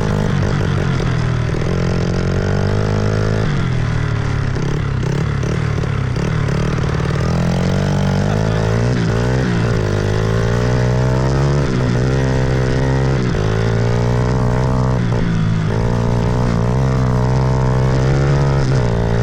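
Petrol dirt bike engine being ridden, revving up and down and changing pitch as the throttle opens and closes and the gears change.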